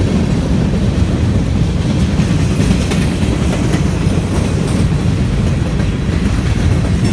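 A train rolling past close by, its steel wheels running on the rails in a steady rumble.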